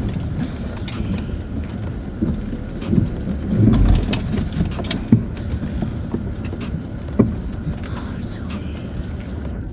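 Cabin noise inside a Land Rover Discovery 4 driving slowly over a rough, wet off-road track. The engine and tyres make a low drone, with frequent knocks and clunks from the suspension and cabin as the wheels ride over the uneven ground. The heaviest thump comes about four seconds in.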